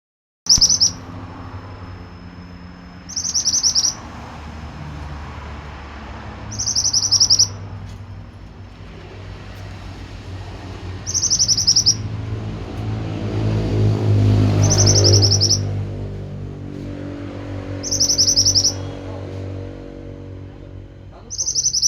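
Pied bushchat (mantenan) singing in full song, a short rapid high phrase about every three to four seconds, seven times in all. Under it runs a low steady rumble that grows louder in the middle.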